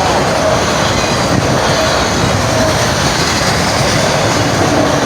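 Freight train rolling past close by: a loud, steady rush of wheels on rail.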